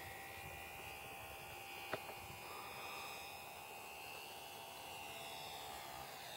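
Electric motor and propeller of a radio-controlled model aircraft in flight, a faint whine whose pitch drifts slowly up and down as it flies, with one sharp click about two seconds in.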